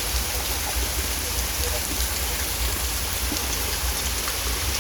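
Steady rain falling during a thunderstorm: an even hiss with faint scattered drop ticks and a low rumble underneath.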